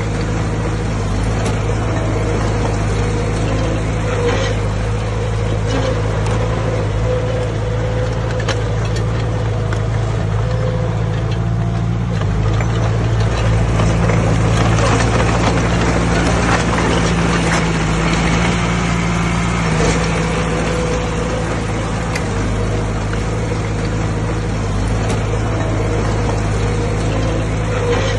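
Heavy diesel engine running steadily at constant speed, louder and noisier for a stretch in the middle as it takes on more load.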